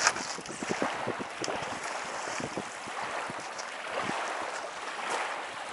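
Gusty wind on the microphone with small waves lapping and splashing irregularly at the shore.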